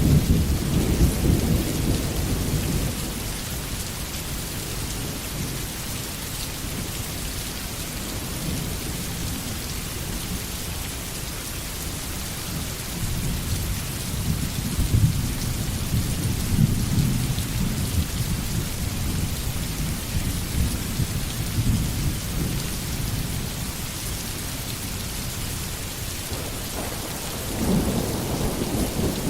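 Steady rain falling in a forest. Deep rumbles of thunder swell at the start, again in the middle, and near the end.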